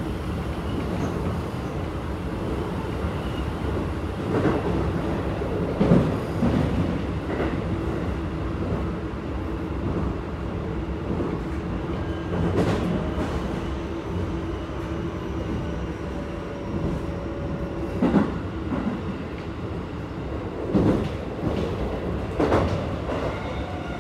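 Keikyu 1000 series stainless-steel train with Toyo IGBT-VVVF drive running at speed, heard from inside the passenger car. Its wheels and track make a steady rumble, broken by about seven sharp clacks over rail joints. A faint steady tone runs through the middle of the stretch.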